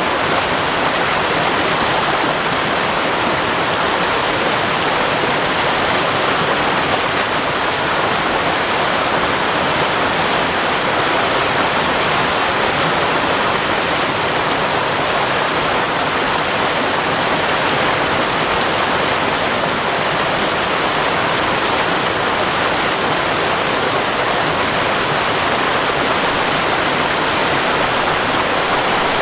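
Seasonal waterfall running in a steady, even rush of falling water that does not change.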